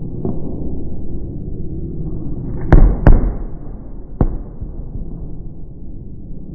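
Aerial fireworks shells bursting over a steady low rumble: two loud bangs close together about three seconds in, then a third a second later.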